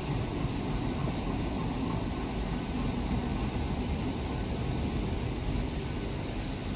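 Train running along the track: a steady rumble, heaviest in the low end, with an even rushing noise above it.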